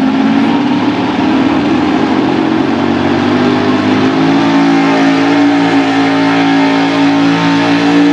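Four-wheel-drive pulling truck's engine running hard at high revs under load during a sled pull, its pitch slowly rising.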